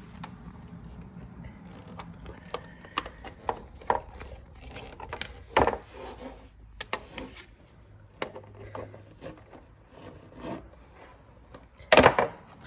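Refrigerator parts being handled and taken apart by hand: scattered clicks, light knocks and rubbing, with a louder knock about halfway and a cluster of louder knocks near the end.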